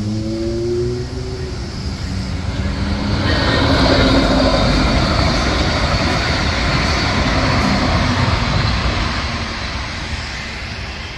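Brightline passenger train passing at speed through a grade crossing. A horn chord sounds at the start, and a rush of wheel and air noise rises to a peak about four seconds in and then slowly fades.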